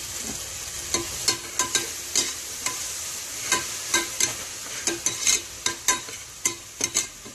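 Onions and a freshly added ginger-garlic, coriander and mint paste sizzling in oil in an aluminium pressure cooker, while a spatula stirs them, scraping and tapping against the pot about twice a second.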